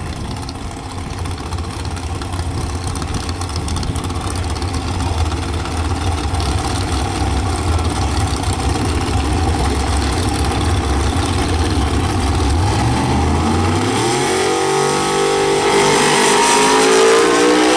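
Drag racing car's engine rumbling low, then about fourteen seconds in its pitch climbs steadily as it launches and accelerates hard down the strip, loudest near the end.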